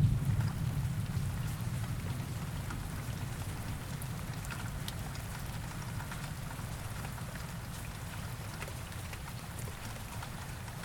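Steady rain falling, an even hiss with scattered drops ticking. A low thunder rumble dies away in the first couple of seconds.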